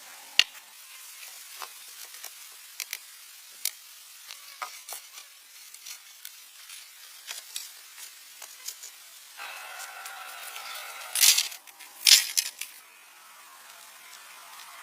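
Campfire crackling and hissing, with scattered sharp pops, and a louder stretch of hiss and cracking near the end.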